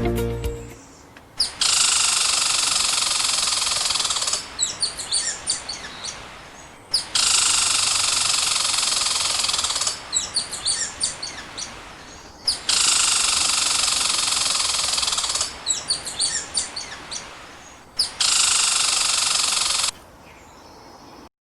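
A recorded animal sound played four times in a row: each time a hissing sound lasting about three seconds, then a patter of rapid high chirps.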